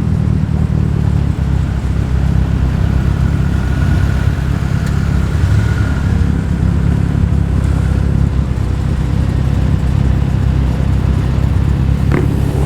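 Engine of a modified car rumbling steadily as it rolls slowly into a car meet.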